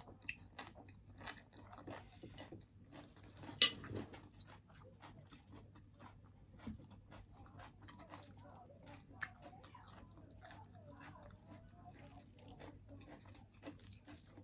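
Close-up chewing and crunching of breaded fried shrimp, with crisp crackles from the coating throughout and one loud crunching bite about three and a half seconds in.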